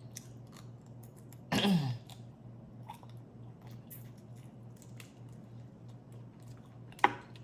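A person chewing crawfish-boil food close to the microphone, with scattered small wet clicks of mouth and shell. About one and a half seconds in there is a short falling hum of the voice, and a sharp click comes just after seven seconds.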